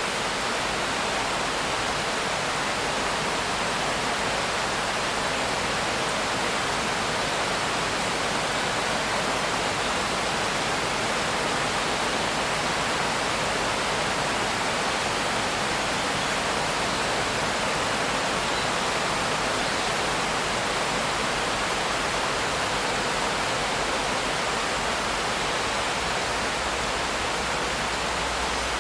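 Steady heavy rain: an even, unbroken hiss with no separate drops or thunder standing out.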